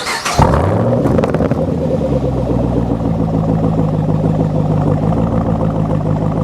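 Camaro SS's LS3 6.2 L V8 engine running loud. About half a second in it comes up sharply, its note rises for a second or so, then holds at a steady pitch.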